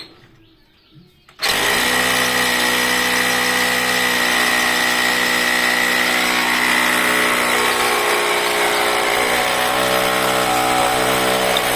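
A handheld electric power tool starts about a second and a half in and runs steadily at full speed, with a steady high whine over its motor hum.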